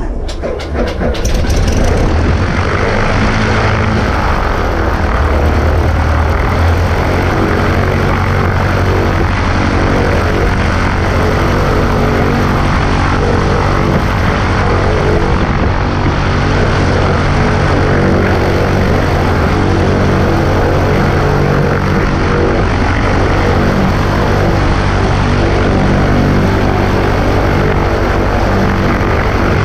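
Cessna 140A's piston engine and propeller, firing unevenly for the first second or two, then running steadily.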